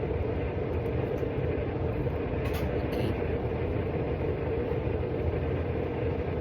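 Steady low rumbling background noise with a constant hum, with a couple of faint light ticks about halfway through.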